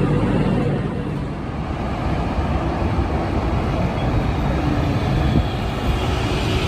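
Steady rumbling vehicle noise, strongest in the low range, with no clear single event.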